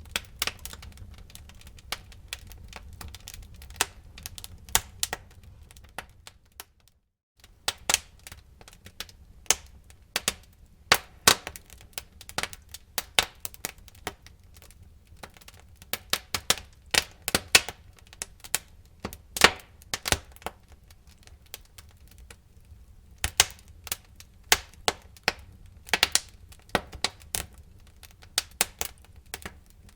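Wood fire burning in a fireplace, crackling with irregular sharp pops and snaps over a low rumble. The sound cuts out for about a second near seven seconds in, then the crackling resumes.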